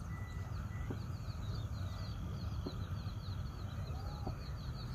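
A small bird's rapid, high chirping, several short chirps a second, over a steady low rumble of outdoor ambience.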